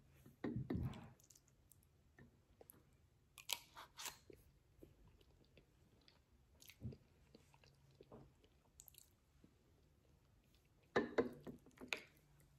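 Close-up chewing and mouth sounds of someone eating soft shepherd's pie of mashed potato and vegetables. Short scattered clicks and scrapes come about half a second in, around four seconds and around eleven seconds, as the spoon goes into the bowl.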